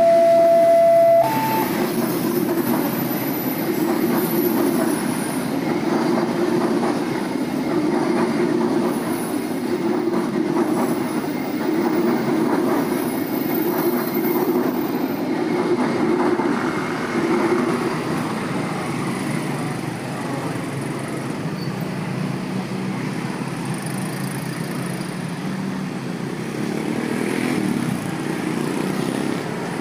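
Passenger train coaches rolling over the rails at a level crossing: a steady rumble that fades out about eighteen seconds in. A steady two-pitch warning tone cuts off near the start, and road traffic with motorcycles moving off follows once the train has gone.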